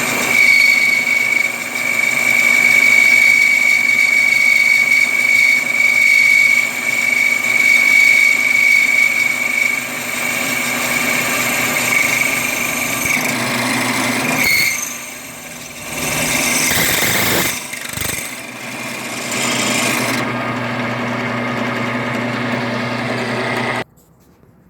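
Electric power tool running under load on a steel disc, with a steady high whine over a hiss. The sound dips briefly past the middle and cuts off suddenly near the end.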